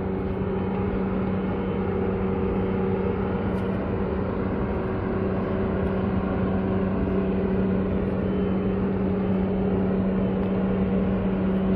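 A steady, unchanging hum over an even haze of outdoor traffic-like noise, with no distinct passing vehicle or impact.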